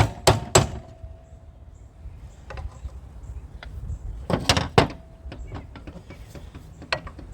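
Metal hand tools knocking and clinking on the casing of a rust-seized old Champion pump being worked loose. A few sharp strikes come at the start, then scattered light clicks, then another pair of strikes a little past midway.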